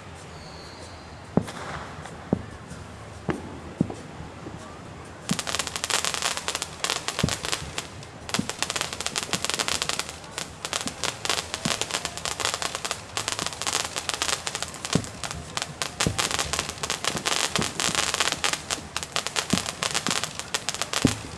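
Fireworks going off: a few separate booms, then about five seconds in a dense crackling barrage sets in, with booms still going off among the crackle.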